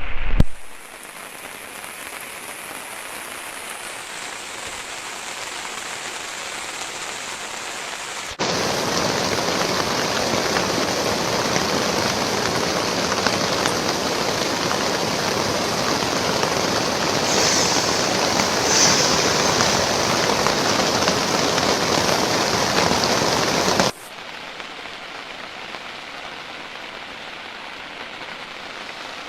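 Heavy rain falling steadily. It jumps suddenly louder about eight seconds in and drops back just as suddenly near the end.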